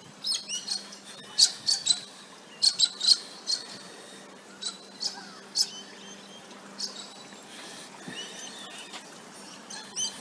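Birds calling: many short, high chirps and chips in quick clusters, thinning out after about six seconds, over a faint steady low hum.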